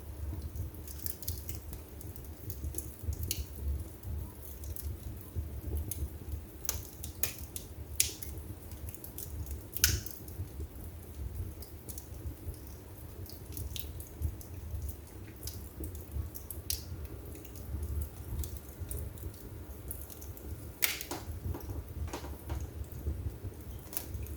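Wood fire burning in a fireplace: irregular crackles and sharp pops over a steady low rumble of the flames. The loudest pops come about eight and ten seconds in, with a flurry of them near the end.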